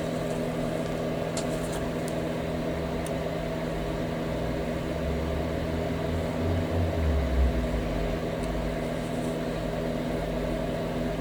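Steady mechanical hum with several fixed pitches, as from a fan or small motor running, with a few faint clicks; a low rumble swells about five seconds in and fades about three seconds later.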